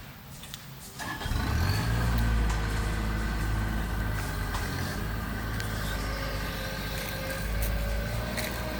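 A large engine comes in abruptly about a second in and then runs steadily with a low hum.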